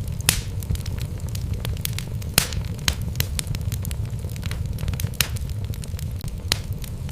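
Wood fire burning in a fireplace: a steady low rumble of flame with continual crackling and several louder sharp pops from the logs.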